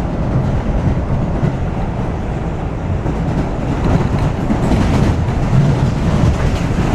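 New York City Subway A train running along the track, a steady loud rumble of wheels on the rails.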